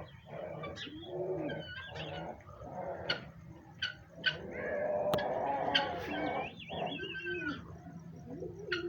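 Several birds calling together: low arched calls that repeat, with higher warbling chirps and a few sharp clicks over them.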